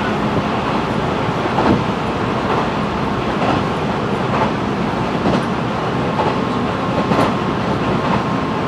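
Sanyo Electric Railway train running at speed, heard from inside the car: a steady rumble of wheels on rail with a click from the rail joints about once a second.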